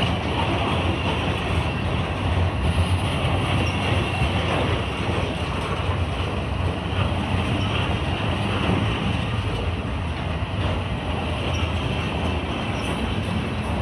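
Freight train cars rolling past, a steady rumble and rattle of steel wheels on the rails.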